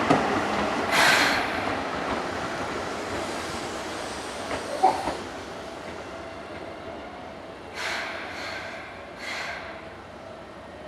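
Seibu 2000-series electric commuter train slowing to a stop at a station platform, its running noise fading away. Short hissing bursts come about a second in and three more near the end, with a brief squeal about five seconds in.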